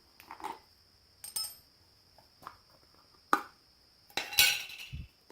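Brass valve parts clinking and knocking against hard surfaces: a few separate clinks, one with a short metallic ring, then a longer clatter and a dull thump near the end.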